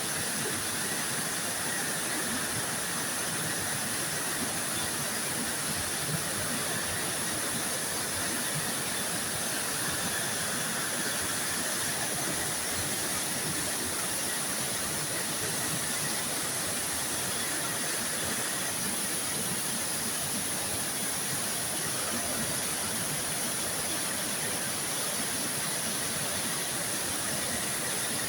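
Waterfall rushing steadily, a constant wash of falling water with a steady high-pitched hiss over it.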